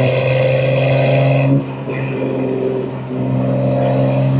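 BMW M2 G87's S58 twin-turbo inline-six running under light load through catless downpipes and an equal-length mid pipe, with a steady engine note. The throttle eases off about a second and a half in and the note grows again from about three seconds.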